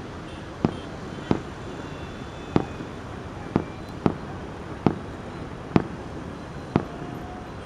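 Fireworks going off: about eight sharp bangs at irregular intervals, roughly a second apart, over a steady background hiss.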